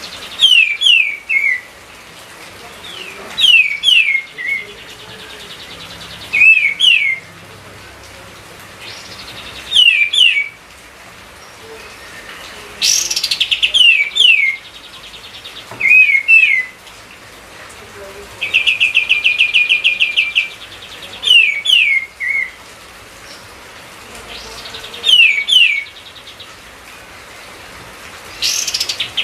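Kapas tembak (streak-eared bulbul) singing vigorously: short phrases of quick, falling whistled notes repeated every few seconds, with a longer buzzy, rattling trill twice.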